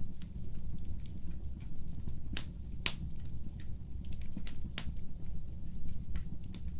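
Fire crackling in a fireplace: irregular sharp pops and snaps over a low, steady rumble of flame, with two of the loudest pops close together about two and a half seconds in.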